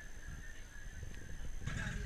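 Low, uneven rumble of vehicle and road noise with a faint steady high whine, getting abruptly louder near the end.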